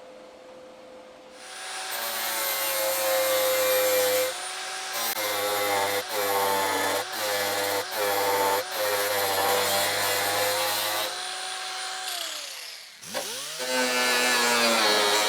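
Handheld electric grinder running on steel sheet-metal patch work, cutting out briefly several times. It winds down with falling pitch about twelve seconds in, then spins back up near the end.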